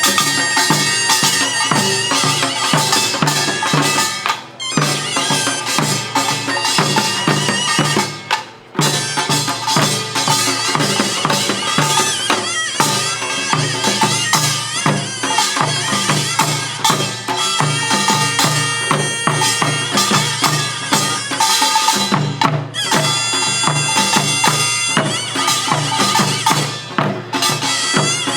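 Korean pungmul band playing: a taepyeongso (Korean double-reed shawm) carries a wavering, reedy melody over driving drum and gong rhythms, dropping out briefly twice in the first nine seconds.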